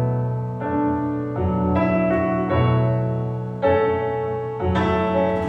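Piano playing slow, sustained chords that change about once a second, as the intro of a song.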